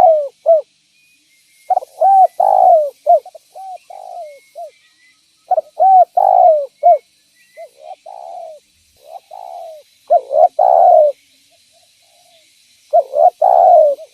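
Spotted dove (derkuku) cooing in repeated phrases of several rounded notes, each phrase a second or two long with short pauses between, about six phrases in all.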